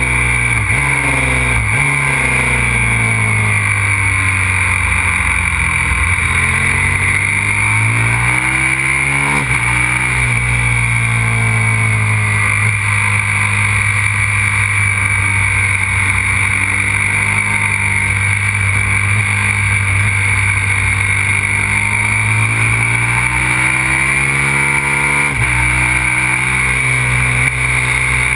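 Aprilia RXV 550 supermoto's V-twin engine running hard round a track, its pitch falling through downshifts near the start. It then climbs, drops sharply at an upshift about ten seconds in, holds steady, and climbs and shifts again near the end.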